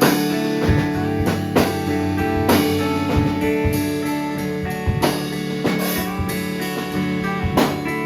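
Live band playing, guitar with drum kit: held guitar notes ring over irregular drum and cymbal hits.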